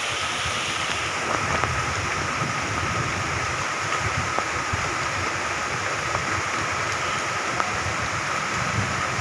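Moderate to heavy rain falling steadily: an even hiss with a few scattered light ticks and a faint steady high tone.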